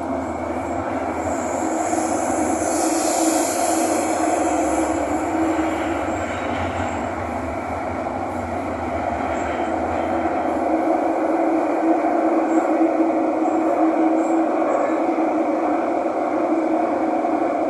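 Thomson-East Coast Line metro train running between stations, heard from inside the car: a steady rumble with a held hum. A high hiss rises about a second in and fades out by about five seconds in, and the running noise grows louder over the second half.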